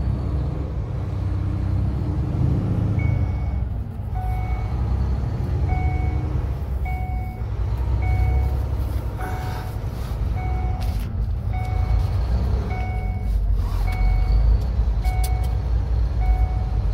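Semi truck's diesel engine rumbling steadily while the truck struggles for grip on an iced-over road, with a short two-tone electronic beep repeating about once a second from a few seconds in.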